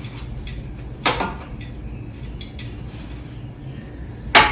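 A ceiling fan duster knocking against the fan blades while the blades are dusted: a sharp knock about a second in and a louder one near the end, with faint ticks between, over a steady low hum.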